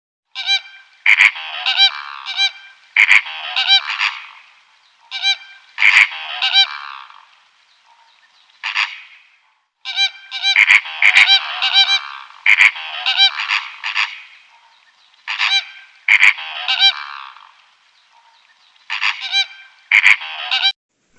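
A bird honking over and over, loud pitched calls coming in bunches of several with short pauses between.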